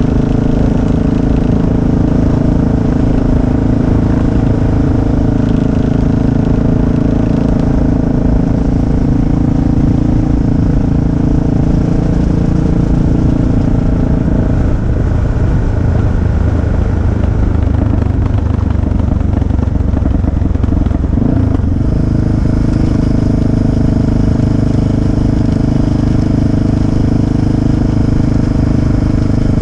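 Motorcycle engine running steadily under way. About halfway through its note drops lower for several seconds, then picks back up sharply.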